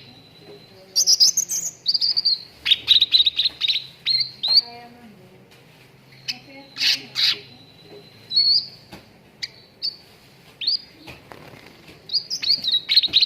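Cucak ranting bulbul song played as a lure recording: rapid chirps and short high whistled sweeps in repeated bursts, with short pauses between phrases.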